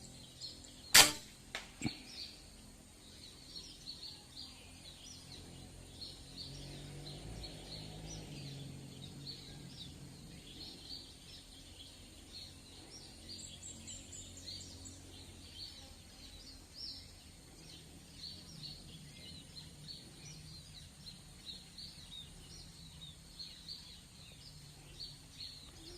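A single PCP air rifle shot about a second in: one sharp crack, followed by a fainter knock under a second later. Birds and insects chirp steadily in the background.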